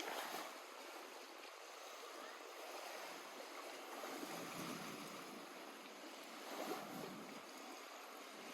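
Small lake waves lapping gently at the shore, a faint even wash of water that swells slightly just after the start and again about two-thirds of the way in.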